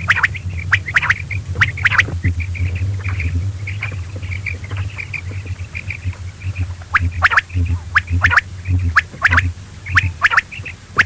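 Quail calling: a long run of short, sharp call notes, repeated many times, over a steady low hum.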